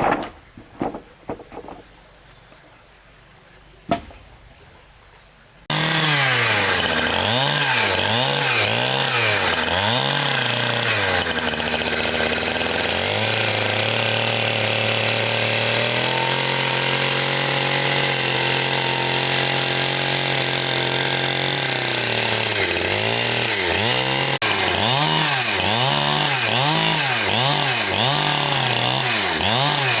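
A few sharp wooden knocks, then about six seconds in a two-stroke chainsaw comes in loud and runs on. Its pitch swings up and down over and over as it is revved and eased, holding higher and steadier for several seconds in the middle of a cut.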